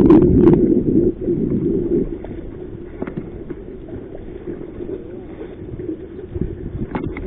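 Strong wind buffeting the microphone: a low rumble, loudest in the first couple of seconds, then steadier and lower, with a few faint knocks.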